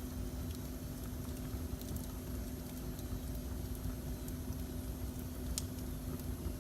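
Wood fire burning in a fireplace: a low rumble with scattered sharp crackles and pops, the loudest pop about five and a half seconds in. A steady hum runs underneath.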